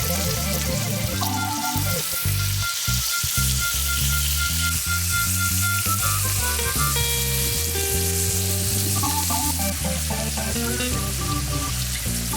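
Food sizzling and frying on a hot pan, a steady crackle, over background music.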